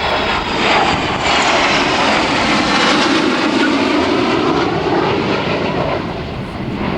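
Panavia Tornado GR4 jet flying past, its twin RB199 turbofans making loud jet noise with a faint whine falling in pitch early on; the noise eases a little near the end.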